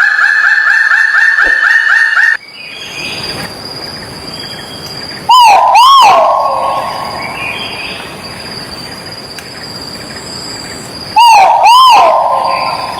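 A rooster crowing twice, about six seconds apart; each crow is two short arched notes and then a long note that falls away. Before the first crow, another bird gives a fast run of repeated whistled notes, about four a second, that stops suddenly, and a steady high-pitched tone runs underneath throughout.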